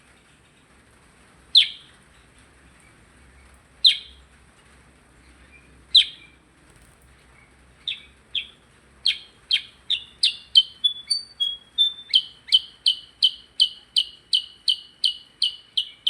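A percang bird calling. Three single sharp chip notes come about two seconds apart, then from about eight seconds in the same note repeats in a quickening run, settling at about three a second.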